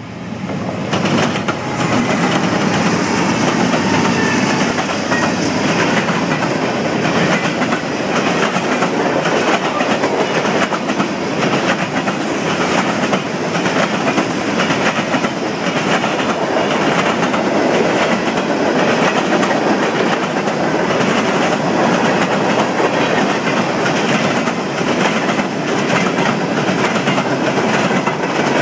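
Norfolk Southern mixed freight train rolling past at track speed: a loud, steady rumble of freight cars with the wheels clacking rhythmically over the rail joints, swelling up in the first second as the train comes close.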